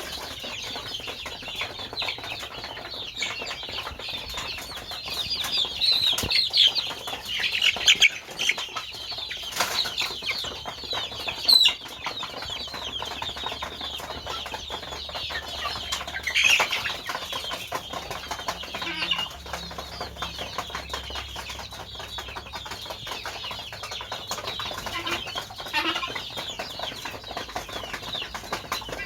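Chickens calling and clucking over steady rustling and scratching, with a few louder calls around the middle.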